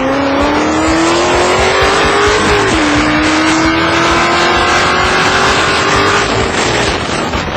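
Engine pulling hard at full throttle during a street race, rising in pitch, with one upshift about two and a half seconds in. It then climbs again more slowly and fades near the end.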